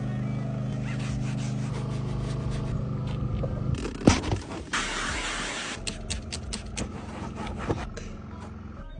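Car-detailing work. A machine hums steadily for about four seconds, then gives way to scraping and rubbing, a knock, a brief hiss and a quick run of clicks.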